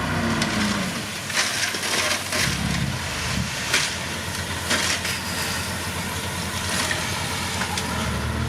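Heavy diesel road-construction machine running under load while rock and gravel crunch and crack beneath it. Sharp cracks come thickest in the first half, with one loud crack a little under four seconds in.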